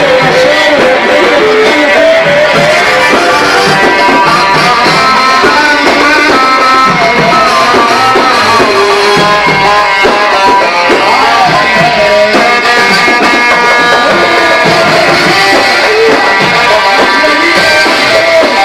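Loud amplified Egyptian shaabi wedding music: a melody instrument plays an ornamented line with sliding notes over steady drum percussion.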